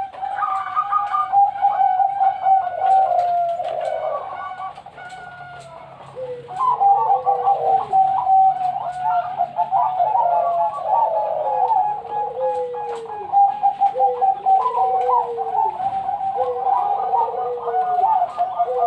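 Several zebra doves (Bangkok-strain perkutut) cooing at once, their rhythmic coos overlapping, with falling notes repeating about every second and a half and a short lull about six seconds in.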